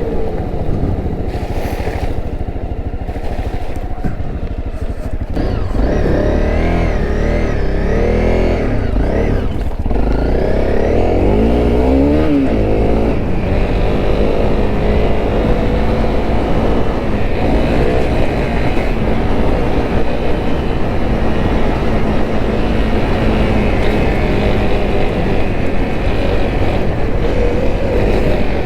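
Honda CRF250L single-cylinder four-stroke engine running as the motorcycle is ridden. Its revs rise and fall several times in the first half, then hold fairly steady.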